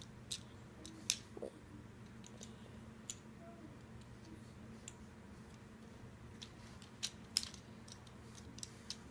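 Small plastic clicks and snaps of an Optimus Prime Transformer toy's arm being twisted and fitted into place by hand. The clicks are irregular, with a few louder snaps about a second in and around seven seconds, over a faint low hum.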